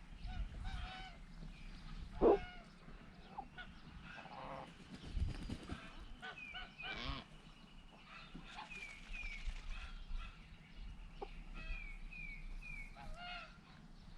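Backyard poultry flock calling: scattered short honking and squawking calls, one loud call about two seconds in, with strings of short high chirps from about halfway through.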